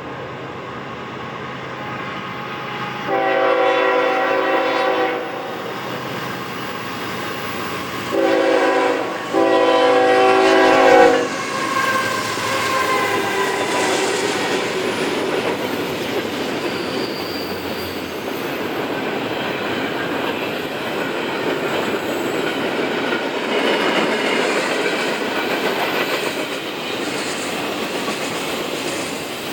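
CSX freight locomotive's air horn sounding three blasts, a long one, then a short one and a long one, followed by the freight train rolling past with the clickety-clack of its wheels on the rails.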